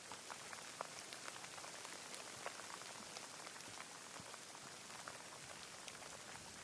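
Rain falling steadily: an even hiss sprinkled with many distinct individual drop ticks.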